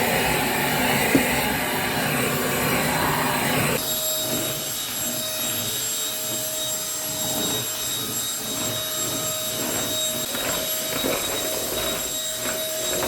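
Vacuum cleaner running on a floor. About four seconds in the sound changes abruptly to a slightly quieter run with a steady high whine.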